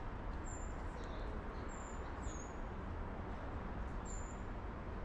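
Small bird giving four short, high chirps that fall slightly in pitch, two of them close together, over a steady low background rumble.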